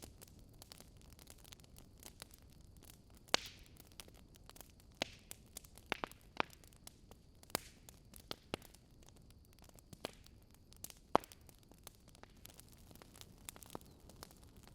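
Burning logs crackling: scattered sharp pops and snaps over a faint steady hiss, the loudest pops about three seconds in and about eleven seconds in.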